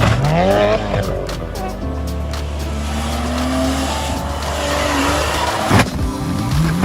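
Racing car engine revving up and down with tyres squealing, over background music. There is a sharp bang about six seconds in.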